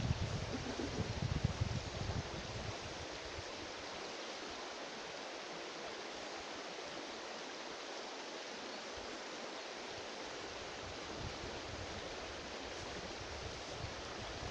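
River water rushing steadily past. Wind buffets the microphone with low gusts during the first couple of seconds.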